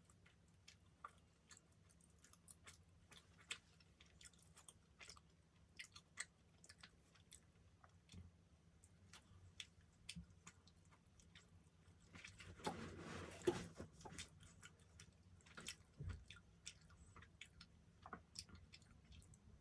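Close-up mouth sounds of someone chewing soft dessert pastry: quiet, scattered small wet clicks and smacks, with a louder, noisier stretch lasting about a second and a half a little past the middle.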